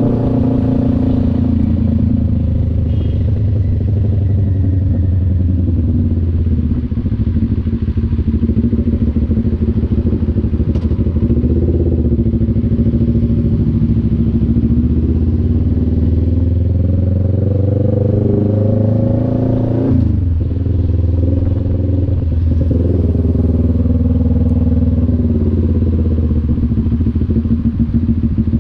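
CF Moto NK400 two-cylinder motorcycle engine running under way, its pitch climbing steadily for several seconds as it accelerates, then dropping sharply about two-thirds of the way in before running on at a steadier pitch.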